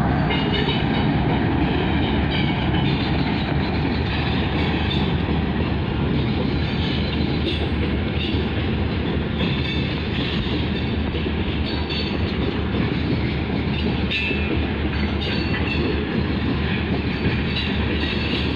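Freight train of tank cars rolling past: a steady noise of steel wheels on rail, with short high-pitched sounds here and there.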